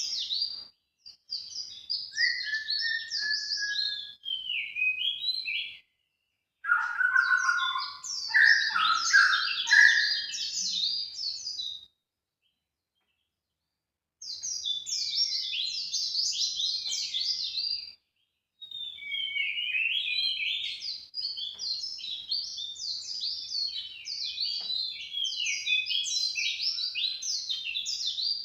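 Recorded bird-lure song: a small songbird's fast, jumbled chattering song in long phrases of rapid high notes, broken by short, completely silent gaps. About seven seconds in, lower, louder notes join for a few seconds.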